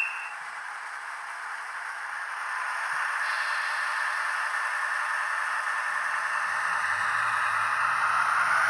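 Sound decoder of a Minitrix BR 218 model diesel locomotive playing the diesel engine start-up through its small loudspeaker: a steady hiss that slowly grows louder, with a low engine rumble coming in about six seconds in.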